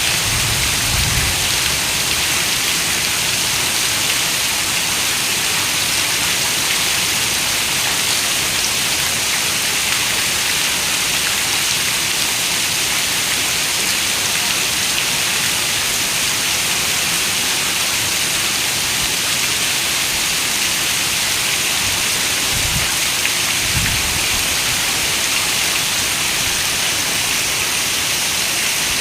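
Heavy rain falling steadily on a window: a dense, even hiss. Two brief faint low rumbles come through, one near the start and one about three-quarters of the way through.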